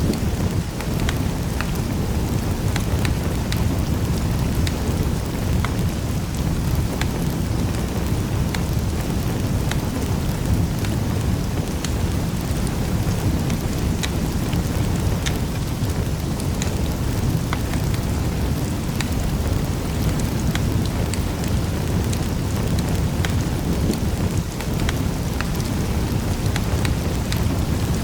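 Wood fire burning in a fireplace: a steady low rumble of flames with frequent small sharp crackles and pops scattered through it.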